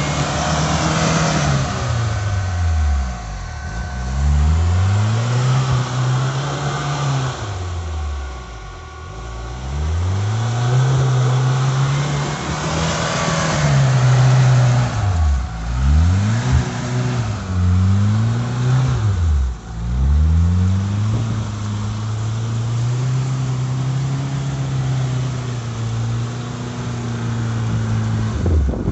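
LuAZ off-roader's VAZ-21083 four-cylinder engine revving up and down again and again, as under repeated bursts of throttle. Later it holds a steady higher speed for several seconds before falling away near the end.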